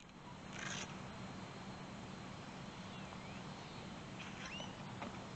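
Open-air ambience: a steady background hiss with a faint low hum, broken by a few short bird chirps about three and four and a half seconds in.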